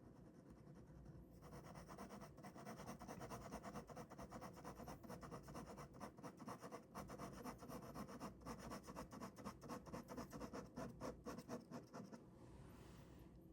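Ballpoint pen drawing on paper, faint and scratchy, in many quick strokes that start about a second in and stop near the end, followed by a soft hiss.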